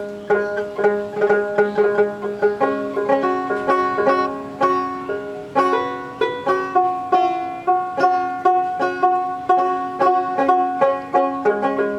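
Dotara, the fretless Bengali folk lute with a goat-skin belly, plucked in a quick, even run of notes, about three or four a second, forming a melody over low strings that keep ringing underneath.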